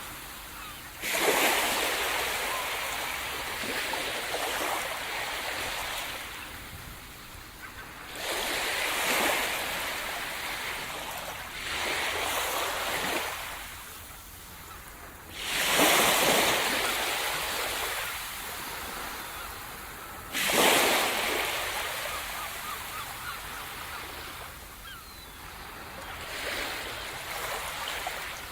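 Sea surf: waves breaking on the shore about every four to five seconds, each a sudden rush of noise that washes out and fades before the next.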